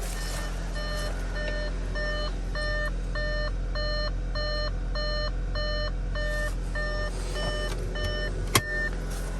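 2014 Audi A4's 2.0T four-cylinder idling steadily while an in-car warning chime beeps over and over, about twice a second. A single sharp click comes near the end.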